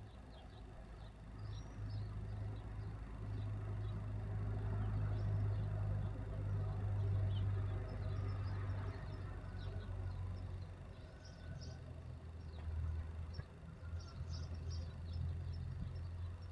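A car passing on a road, its noise swelling to a peak midway and then fading, over a steady low hum. Small birds chirp now and then.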